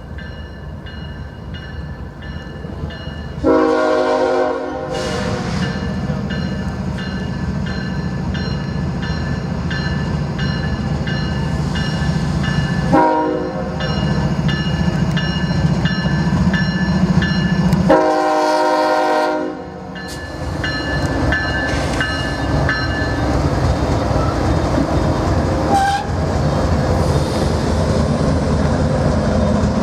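A freight train passing with its horn sounding: a blast about three and a half seconds in, a short toot near the middle and a longer blast a few seconds later, over the steady rumble of the train.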